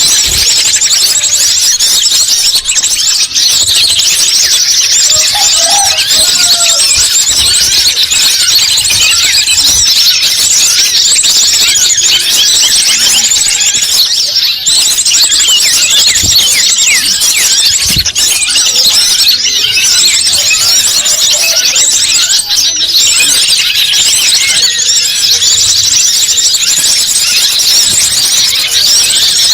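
Dense, continuous high-pitched chirping and twittering of small birds, many rapid calls overlapping without a break, as played in a bird-luring (pikat) recording.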